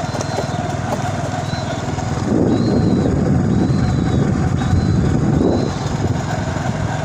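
Engine of a moving road vehicle running steadily, with a louder, noisier stretch lasting about three seconds in the middle. A faint high chirp repeats about once a second.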